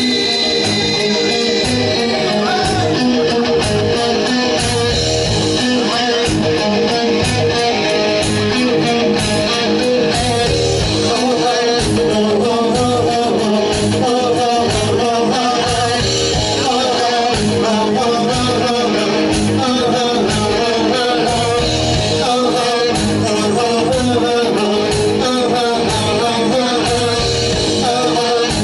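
Rock band playing live: electric guitar, bass guitar and drums with a singer, loud and continuous.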